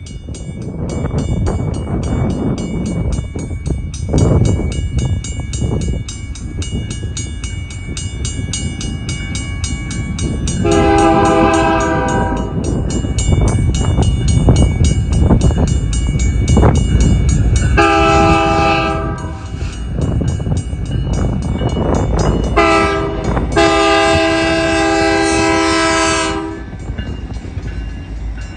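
Train horn sounding the grade-crossing pattern: two long blasts, a short one, then a final long one, over the steady low rumble of the passing train.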